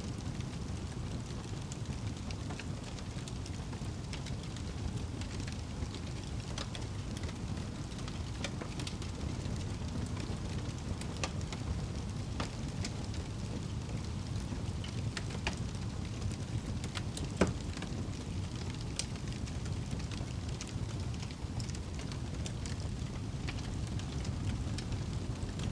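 Wood fire burning in a fireplace: a steady low rumble of the flames with scattered crackles and pops, one louder pop about two-thirds of the way through.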